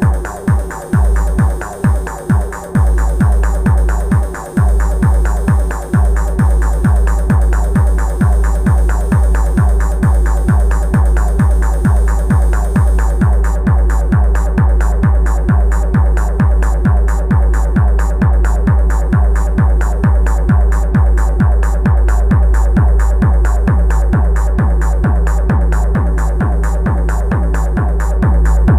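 Elektron Analog Rytm drum machine playing improvised techno: a steady kick drum about two beats a second under sustained synth tones. The kick stutters in the first few seconds before settling, and the bright high layer drops out about halfway through.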